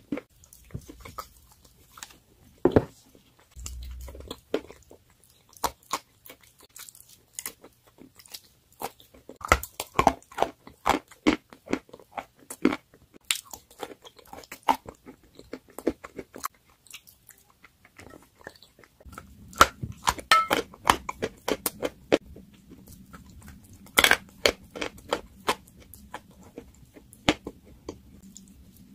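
Close-up crunching and chewing of a crumbly white block coated in a wet paste, in irregular bites and crackles that come thicker in the second half.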